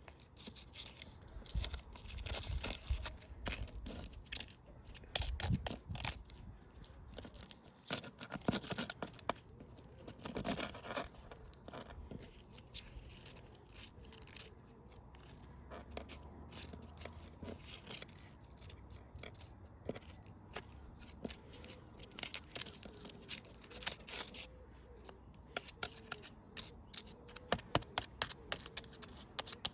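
Small washing machine running after being battered, rattling, clicking and scraping irregularly, with low rumbles in the first half and a faint hum later on.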